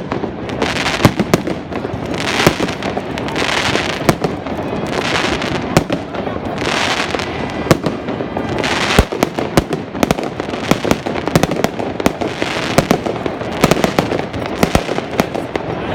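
Fireworks display going off without pause: many sharp bangs of bursting shells in quick succession, with a spell of crackling every second or two.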